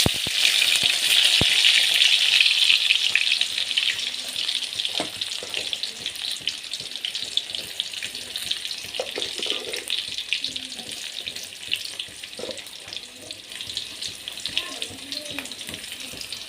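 Sliced onions sizzling in hot oil with spluttered mustard seeds in a kadai, loud at first and easing after about four seconds to a softer, steady crackling fry.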